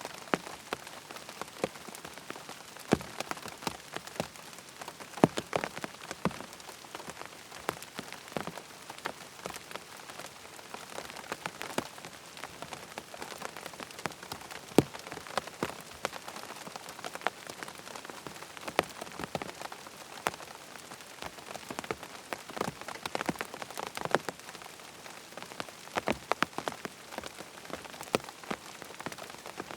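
Rain falling on a tent's fabric: a steady patter of drops with many irregular, sharper single taps of larger drops.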